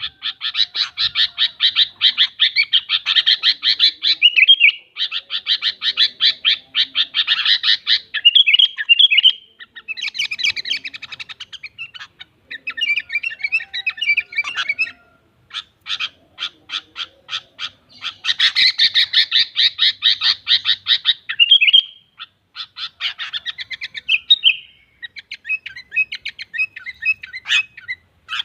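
Sooty-headed bulbul (kutilang) calling: long runs of fast chattering notes broken by short pauses, with a stretch of separate sharp chips in the middle.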